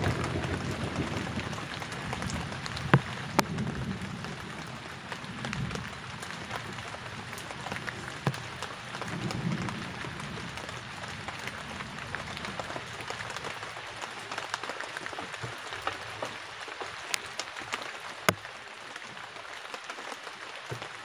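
Heavy rain falling steadily, with a few sharp taps of drops and low rumbles near the start and again about nine seconds in.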